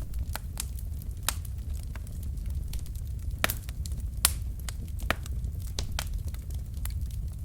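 Wood fire burning in a fireplace: a steady low rumble of flames with irregular sharp crackles and pops from the logs, two louder pops about halfway through.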